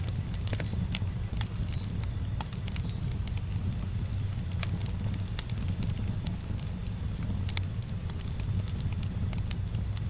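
Campfire burning: wood crackling and popping in scattered sharp snaps over a low, steady rumble of the fire.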